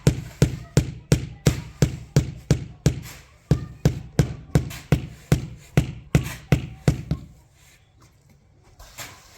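A steady series of sharp striking blows, about three a second, each a short knock with a brief ring, stopping about seven seconds in.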